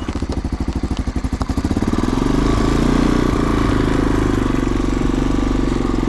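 Small engine running, chugging slowly with distinct firing beats at first, then picking up at about two seconds to a steady, faster run.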